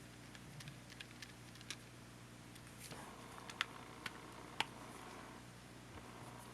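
Small, irregular clicks and taps of tools and plastic parts being handled while a camcorder is taken apart, with a faint steady hum coming in about three seconds in.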